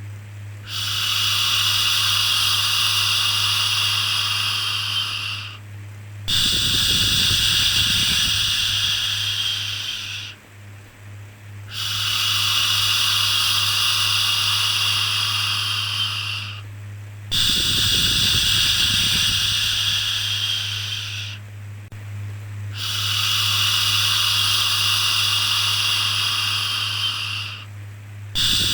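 Repeated shushing 'shhh' sounds for soothing a baby: five long shushes of about four to five seconds each, with short pauses between. A steady low hum runs underneath.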